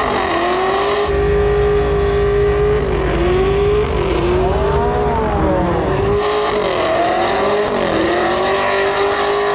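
Car engine held at high revs during a burnout, the revs dipping and climbing back every second or two, over the hiss of spinning tyres.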